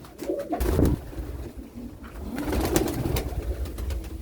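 Domestic pigeons cooing in the loft, with scattered clicks and low knocks of movement close by.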